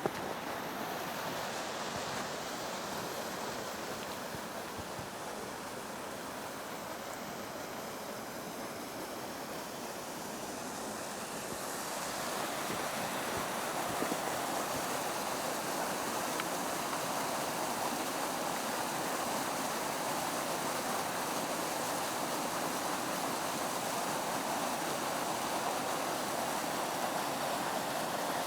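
Creek water pouring over a waterfall: a steady rush that gets louder about twelve seconds in.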